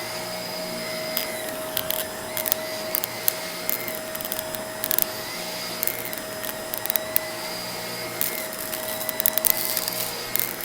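Vacuum cleaner running with a steady whine, crackling and clicking as small bits of debris are sucked up.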